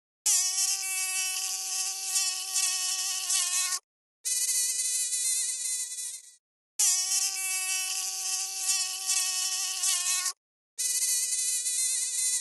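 Mosquito whining in four separate passes, each a few seconds long with brief silences between, alternating between a lower and a higher pitch.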